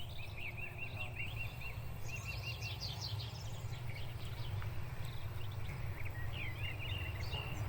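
Small birds chirping in quick repeated trills over a steady low rumble.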